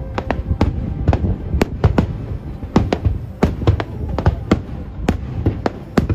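Fireworks shells bursting in quick, irregular succession: several sharp bangs a second over a continuous low rumble of explosions.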